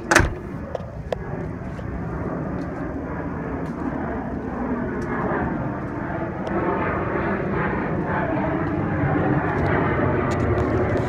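A sharp knock right at the start, then a steady, distant engine drone that slowly grows louder.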